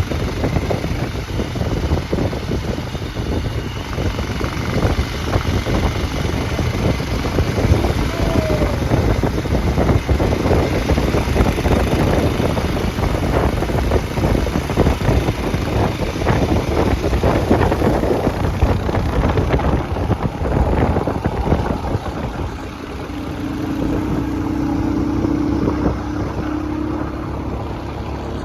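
Motorcycle engine running under way, with heavy rumbling road and wind noise. A steady droning note comes in about two-thirds of the way through.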